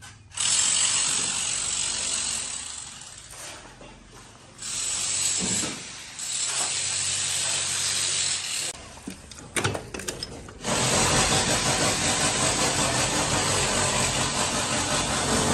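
A power tool running in four bursts that start and stop abruptly, the last one long, during demolition work on a house.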